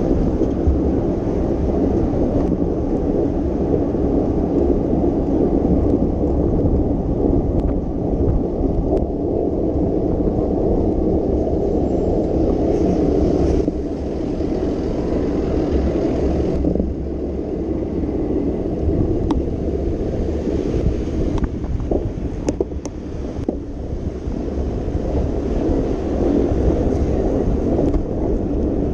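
Steady low rumble of wind on the microphone and rolling road noise from a moving bicycle, with a few sharp clicks about two thirds of the way through.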